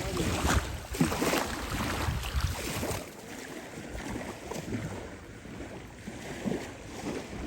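Wind buffeting the microphone over the wash of ocean surf, with the wind rumble heavier for about the first three seconds and then easing.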